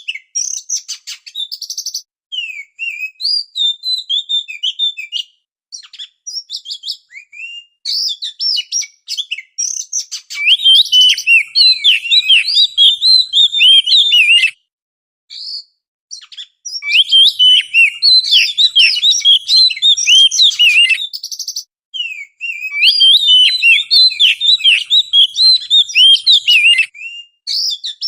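Oriental magpie-robin singing: a fast, varied run of whistled and chattering notes in phrases broken by brief pauses, sparser at first and denser and louder from about a third of the way in.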